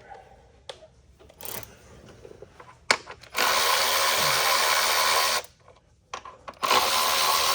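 Cordless power tool running in two bursts of about two seconds each, spinning out the coil pack bolts. A few light knocks of handling come before the first burst.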